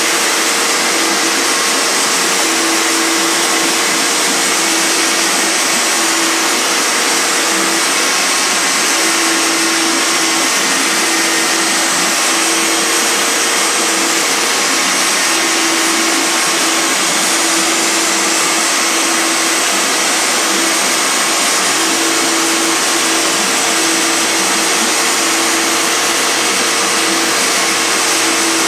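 CNC router's spindle running steadily while it carves a 3D relief, a loud continuous whine with hiss, over which a lower hum comes and goes irregularly as the machine moves.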